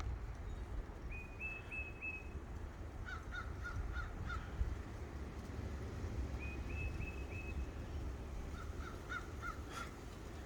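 Crows cawing in short series of four or five calls, a higher-pitched series answered by a lower one, twice over, with a steady low rumble underneath.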